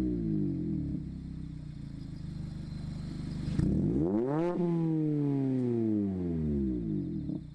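Mazda ND MX-5 Miata's four-cylinder engine through an AIMGAIN valved aftermarket exhaust: revs falling back to idle, a few seconds of steady idle, then one quick throttle blip about three and a half seconds in, the revs rising sharply and dropping back to idle.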